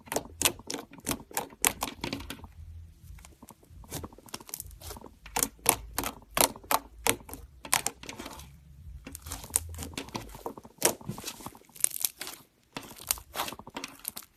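Slime being squeezed and pressed by hand, giving rapid sticky clicks and pops, several a second, with two brief pauses.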